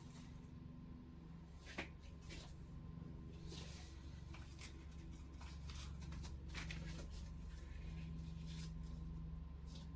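Quiet kitchen handling sounds: scattered light clicks and rustles, the sharpest about two seconds in, over a steady low hum.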